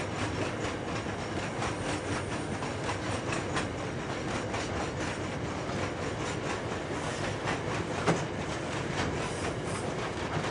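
Loaded iron ore hopper wagons rolling past on 1067 mm narrow-gauge track: a steady rumble of wheels on rail with irregular clicking from the bogies, and a sharper knock about eight seconds in.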